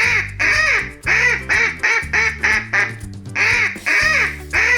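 Duck quacking over and over in quick runs of short calls, over background music.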